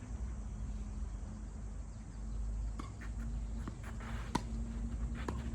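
Tennis balls being struck by rackets and bouncing on the court during play: a handful of sharp pops in the second half, the loudest a little past the middle, over a steady low hum.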